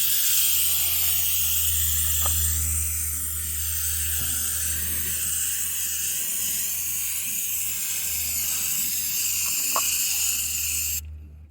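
Aerosol can of aircraft paint stripper spraying in a long continuous hiss, laying a thick coat onto a painted aluminum fuel tank, with a steady low hum underneath. The hiss cuts off abruptly near the end.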